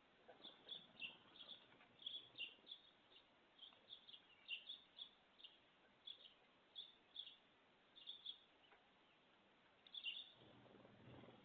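Small birds chirping faintly: many short, high chirps in quick, irregular succession. A low rustling noise joins near the end.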